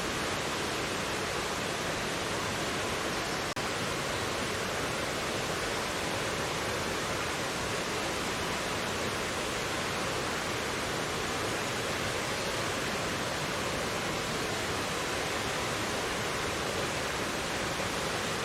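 Mountain valley stream rushing steadily over rocks, an even, unbroken water noise with one brief dip about three and a half seconds in.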